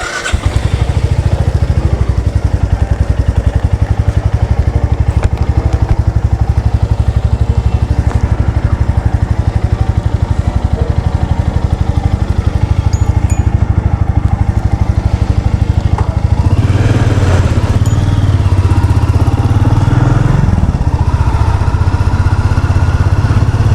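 Royal Enfield Meteor 350's single-cylinder engine running with a steady, evenly pulsing beat, its note swelling and briefly rising in pitch about three quarters of the way in.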